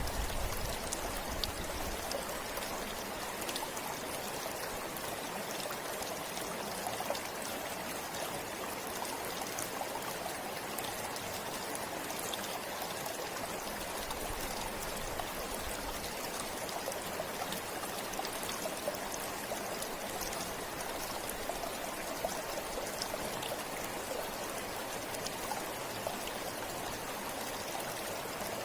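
Forest river or stream flowing steadily over stones, a continuous rushing with small splashes and trickles.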